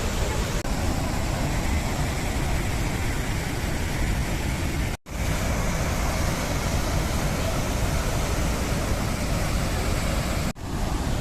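Steady rushing roar of a large monsoon-fed waterfall, Athirappilly Falls, with no pitch to it; it drops out briefly twice, about halfway through and near the end.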